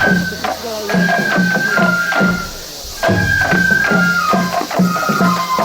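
Japanese festival hayashi accompanying a shishimai lion dance: a high flute plays held, slightly falling notes over drum strokes about three a second. The music dips briefly about two and a half seconds in.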